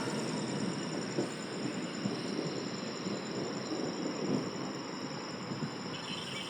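Rumble of a passing train, slowly fading as it runs on after sounding its horn.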